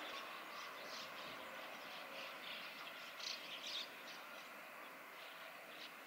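Short, high bird chirps, several in a loose series with the loudest pair a little past the middle, over a steady background hum of distant noise.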